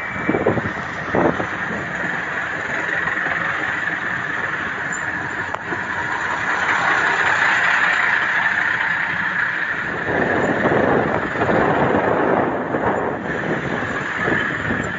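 Steady rushing of wind on the microphone and road traffic during a bicycle ride, swelling louder for a few seconds near the end, as a vehicle passing would.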